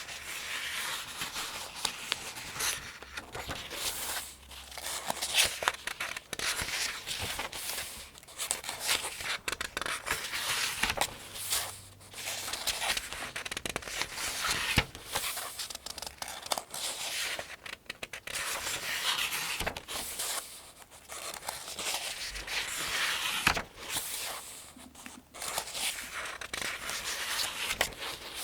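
Thin almanac pages being turned one after another at a steady pace, each turn a crisp paper rustle with sharp flicks and crinkles.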